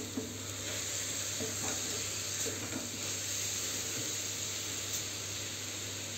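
Grated carrot halwa sizzling steadily in ghee in a metal kadhai, with a spatula scraping and stirring through it. The halwa is at its final stage of cooking, its sugar syrup dried off and the mass pulling away from the sides of the pan.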